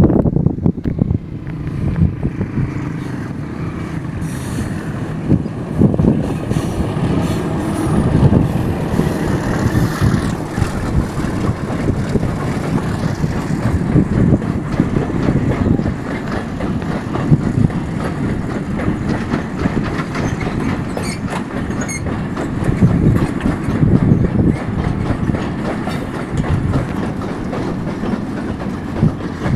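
A PHA-20 diesel locomotive passes in the first seconds, followed by a long train of oil tank wagons rolling steadily by close at hand at about 31 km/h, their wheels clattering over the rail joints.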